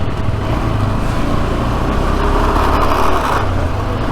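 KTM 390 Adventure motorcycle's single-cylinder engine running steadily while riding, with road and wind noise.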